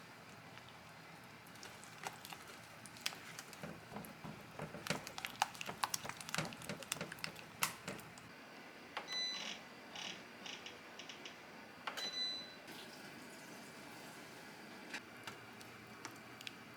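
A quick run of light knocks and clatters, like things being handled and set down, then rustling with two short electronic beeps, one about nine seconds in and one about twelve seconds in.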